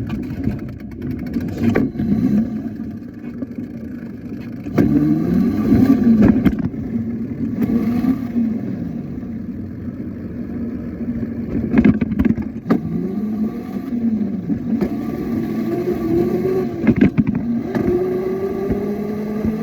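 A motorbike's motor running, its pitch rising and falling repeatedly as it speeds up and slows, then climbing steadily near the end, with scattered knocks and bumps.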